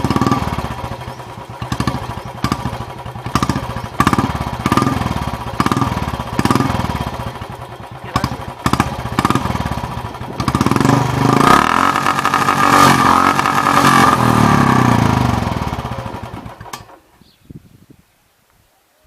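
Royal Enfield Classic 350's single-cylinder engine running through a short-bottle silencer, giving a deep thumping exhaust note. It is blipped repeatedly for about ten seconds, then held at higher revs with a rising pitch, and dies away about seventeen seconds in.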